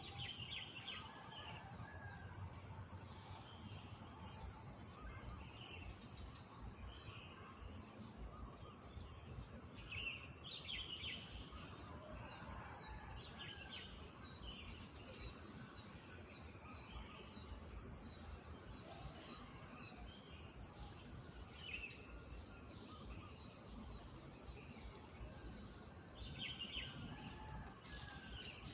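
Village morning ambience: small birds chirping and calling on and off over a steady high-pitched insect drone, with a faint low rumble underneath.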